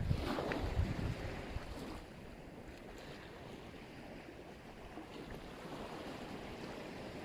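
Black Sea surf: a wave washes in and fades over a couple of seconds to a soft steady hiss of water, then swells slightly again. Wind buffets the microphone in the first second or so.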